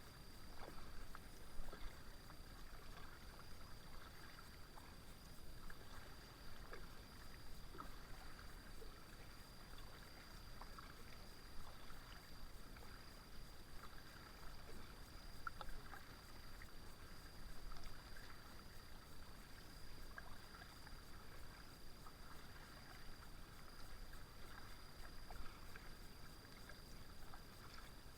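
Kayak paddle strokes in calm river water: faint, irregular small splashes and drips as the blades dip in and come out.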